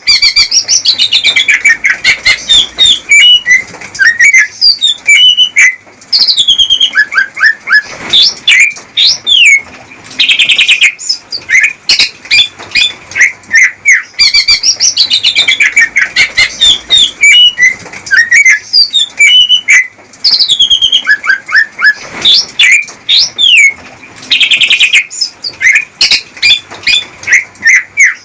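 Male green leafbird (cucak ijo) singing its courtship song: a rapid, unbroken run of varied whistled notes, chirps, quick trills and falling note runs, loud throughout, with the same sequence coming round again about every 14 seconds.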